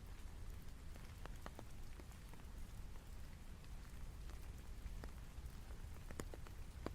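Rain falling steadily, with scattered single drops making sharp taps over an even hiss and a low rumble underneath.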